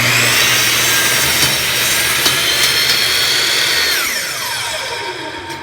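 Hitachi 10-inch single bevel compound miter saw running at full speed and cutting through wood, loud and steady, then its motor winding down in a falling whine from about four seconds in.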